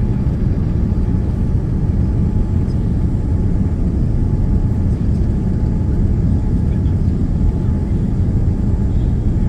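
Steady low rumble heard inside the cabin of a Boeing 787-9 Dreamliner during landing: its Rolls-Royce Trent 1000 engines and the airflow over the fuselage, with a faint steady tone above the rumble.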